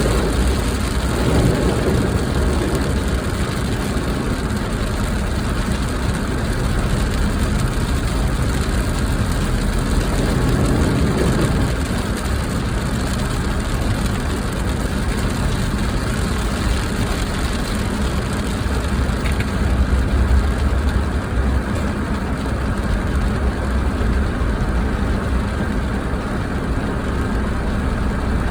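Steady car engine rumble and cabin noise heard from inside a car, with no clear changes.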